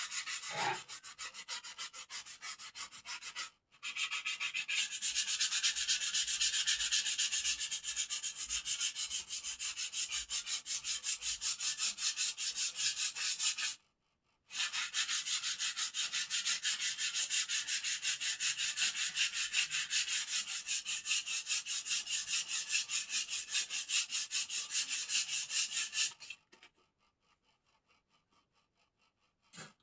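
Wood of a bird cage being sanded by hand: a rapid, even run of back-and-forth scraping strokes that pauses briefly twice and stops a few seconds before the end.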